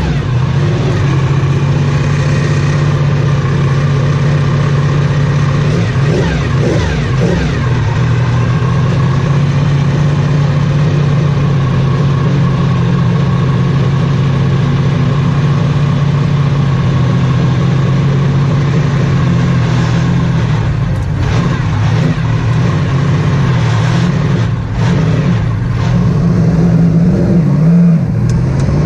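Porsche 917/10 Can-Am car's twin-turbocharged air-cooled flat-12 running at a steady idle just after start-up. The throttle is blipped briefly about six to eight seconds in, and the revs rise slightly near the end.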